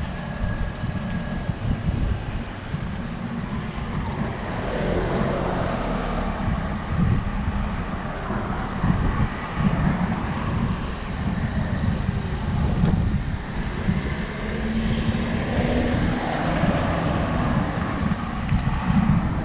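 Wind noise on the microphone of a moving road bike, with road traffic and cars passing now and then.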